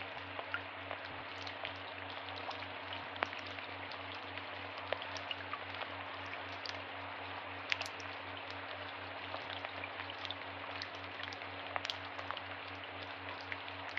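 Steady rain falling in woodland, with many separate drops tapping close by on leaves and surfaces.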